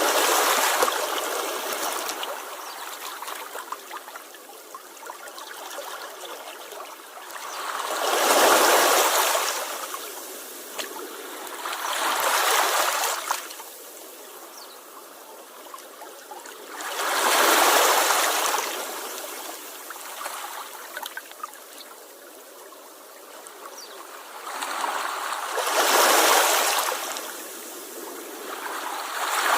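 Sea waves washing onto the shore, each surge swelling and fading away, five in all, some seconds apart, with a softer wash of water between them.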